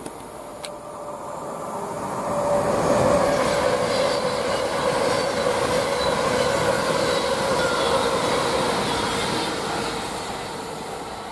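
A long passenger train passing on the far track at the platform: it builds up over the first couple of seconds, runs loudly past with a steady mid-pitched whine over the rush of wheels on rail, and fades as it draws away near the end.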